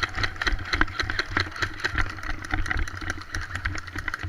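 Airsoft guns firing: an irregular string of sharp clicks and pops, several a second, over a low rumble.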